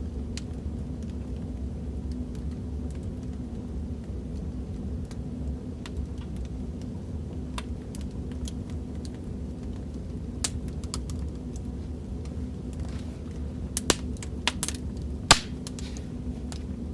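Crackling fireplace recording: a steady low rumble of burning wood with scattered small pops and snaps, two louder snaps near the end.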